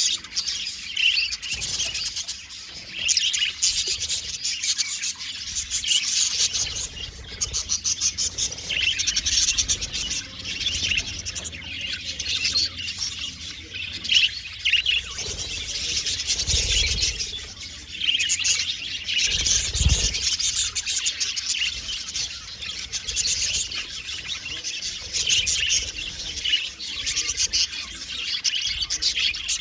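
Several budgerigars chirping and chattering without a pause, a dense mix of quick high calls and warbles, with a brief low rumble twice near the middle.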